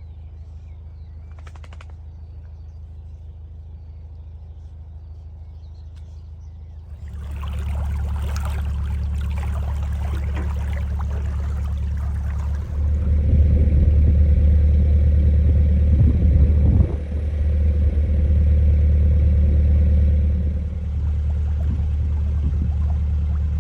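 Narrowboat's diesel engine running with a steady low drone. It picks up about seven seconds in and again about halfway through, then eases slightly near the end.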